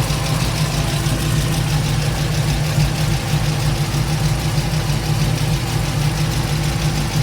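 LS V8 engine swapped into a Chevrolet K10 pickup idling steadily with a fast, even ticking. The owner can't yet tell whether the tick is a header (exhaust) leak or valve-train noise.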